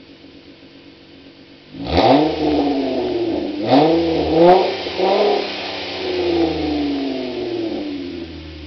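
2011 Dodge Avenger's exhaust through dual glass-pack mufflers with no resonator: idling, then revved sharply about two seconds in. It is blipped twice more, held at higher revs for a few seconds, then falls back toward idle near the end.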